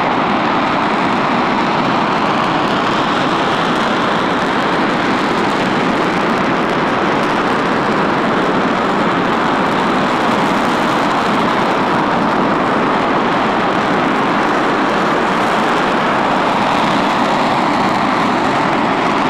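RS-25 liquid-fuelled rocket engine firing at full thrust on a test stand: a loud, steady roar that holds without change.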